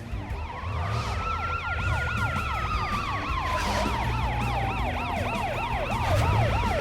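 An emergency-vehicle siren sounding on a cartoon vehicle. It is a fast yelp sweeping up and down about three or four times a second, with a slower wail gliding up and then back down beneath it, over a low steady hum.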